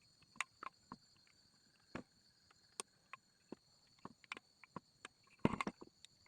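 Scattered sharp clicks and knocks of metal parts and tools being handled during hand assembly of a small motorcycle engine, with a louder rattling cluster near the end. Insects chirr steadily in the background.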